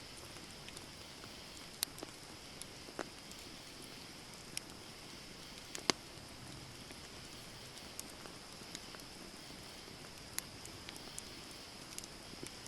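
Wood campfire burning and crackling: a steady soft hiss with scattered sharp pops, the loudest about six seconds in.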